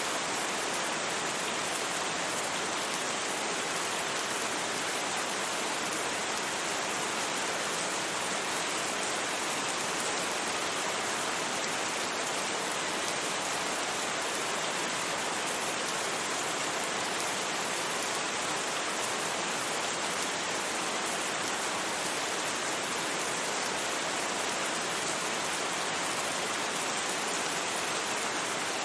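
Steady rain falling in a dense, even hiss, with no thunder and no single drops standing out.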